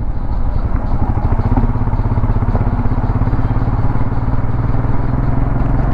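Royal Enfield Himalayan 411's single-cylinder engine running steadily while the motorcycle is ridden, its pulsing drone heard from the bike.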